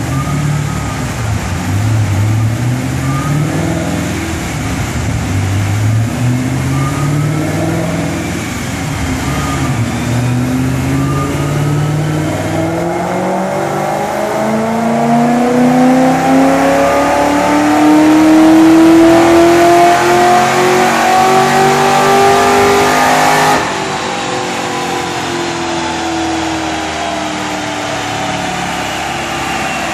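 Supercharged Chevrolet Camaro SS 6.2-litre V8 making a full-throttle pull on a chassis dyno. Its revs climb in several short steps as it goes up through the gears, then rise in one long, loud sweep. About three-quarters of the way through, the throttle shuts off abruptly and the engine winds down as the rollers coast.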